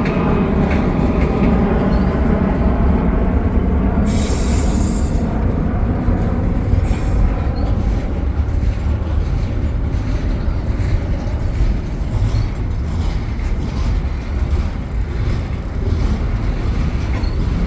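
Railcars rolling past at close range: a steady low rumble of wheels on rail, with a brief high hiss or squeal about four seconds in.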